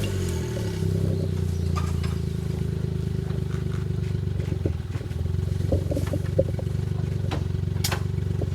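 Suzuki Jimny JA11's small three-cylinder engine, its revs falling away in the first half-second and then running steadily at low revs. A few sharp clicks and knocks sound over it.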